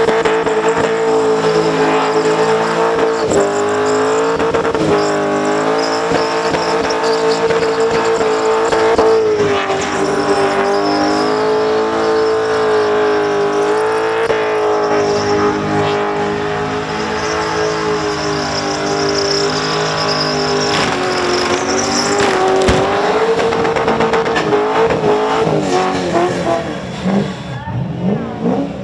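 Supercharged Holden Commodore burnout car's engine held at high revs during a burnout, a steady high note that wavers slightly. Near the end the revs drop and the sound falls away.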